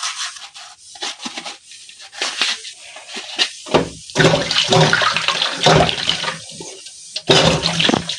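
Washing up at a sink: dishes and utensils clinking, then water running and splashing from about four seconds in as they are rinsed.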